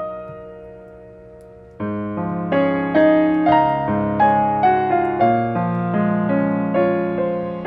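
Background piano music, soft and slow. A chord dies away, then new notes and chords follow from about two seconds in.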